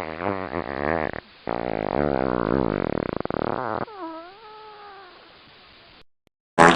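A string of sound-effect clips: two long pitched sounds that waver in pitch, then a fainter tone that dips and rises and slowly fades, and a short loud burst near the end.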